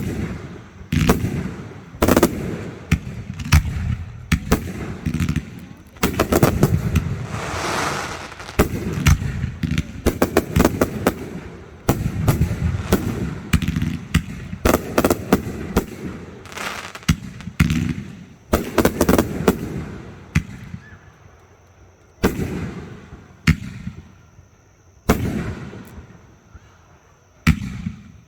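Fireworks display: aerial shells bursting in quick succession, with dense runs of crackling reports in the middle. Near the end they thin to single booms a second or two apart.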